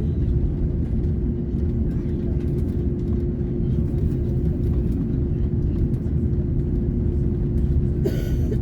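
Airbus A330neo's Rolls-Royce Trent 7000 engines running, heard inside the passenger cabin as a steady low rumble with one steady hum above it. A short hiss comes near the end.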